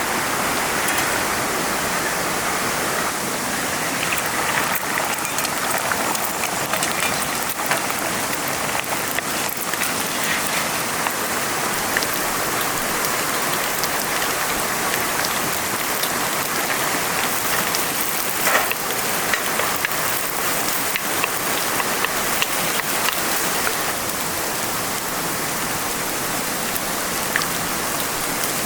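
Trout fried rice stir-frying in a hot pan: a steady sizzle with frequent small pops.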